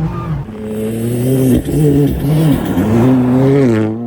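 Ford Fiesta ST rally car's turbocharged engine being driven hard, its revs rising and falling several times.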